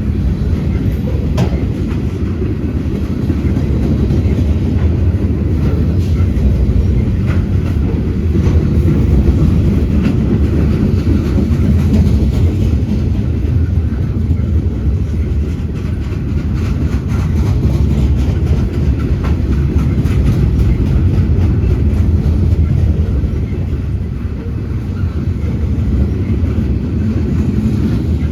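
Freight unit train loaded with pipe rolling past: a steady low rumble of steel wheels on rail, with occasional clicks over rail joints.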